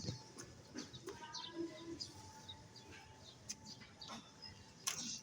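Quiet background with a few faint, short bird chirps and scattered light clicks.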